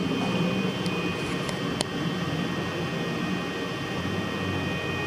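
Homemade mist-maker humidifier running: a steady whirring hum with a faint high whine over it, and a light click a little under two seconds in.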